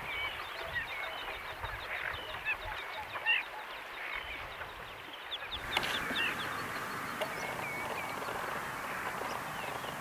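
Many short, high bird calls, chirps and rising or falling whistles overlapping one another, from waterbirds at a lake. A little over halfway through, the background changes abruptly to a steadier hiss behind the calls.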